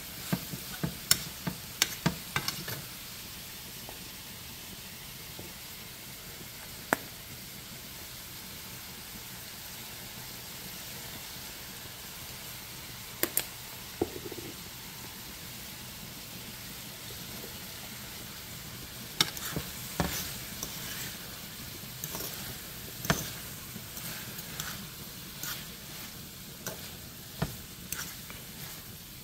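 Ackee and saltfish sizzling in a metal frying pan with a steady hiss, while a fork stirs it and clicks and scrapes against the pan: a cluster of clicks in the first few seconds, a few near the middle, and many through the last third.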